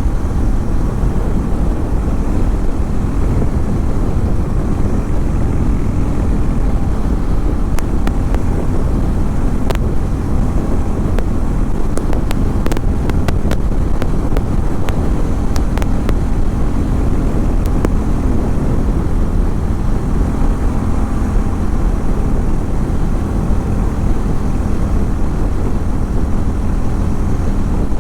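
Harley-Davidson X440 T's 440 cc single-cylinder engine running at a steady, unchanging speed, with a scatter of small ticks in the middle stretch.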